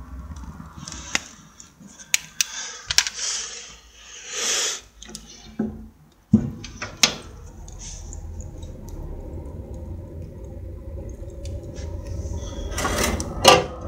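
Handling noises: rustling, clicks and knocks with metallic clinks, followed about six seconds in by a steady low rumble, and a louder burst of rustling and clicks near the end.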